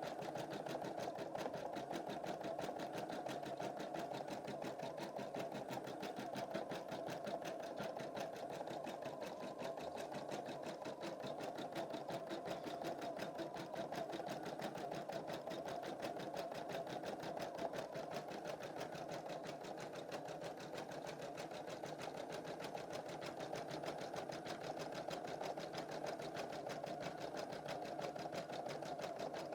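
Embroidery machine stitching a design, its needle running in a steady, rapid rhythm without a break.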